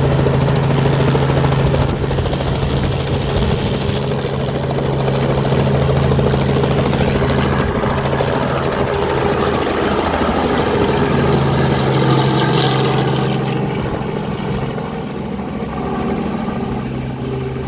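Helicopter running, its engine and rotor making a loud, steady drone that eases off a little in the last few seconds.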